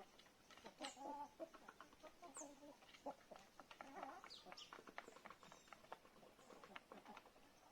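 Chickens clucking softly, with many small clicks and taps and a few short, high chirps that fall in pitch.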